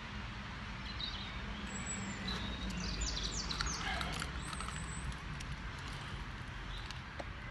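Small birds chirping several times over a steady low background rumble, with a cluster of short high chirps and quick falling notes about two to five seconds in.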